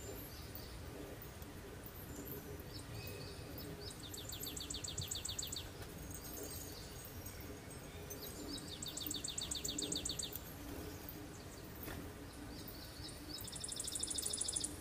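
A songbird singing the same song three times, about every five seconds: a few short notes, then a fast, even trill lasting about a second and a half. Steady low background noise underneath.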